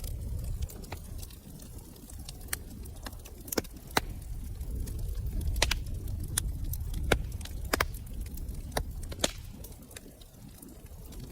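Wood fire burning in a fireplace: a low steady rumble of flames with sharp crackles and pops scattered through it, most of them in the middle few seconds.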